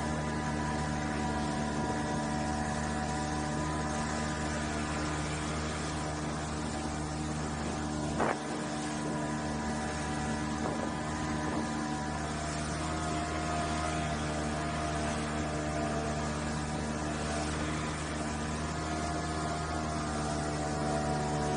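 An engine running steadily at an even speed, with a single short knock about eight seconds in.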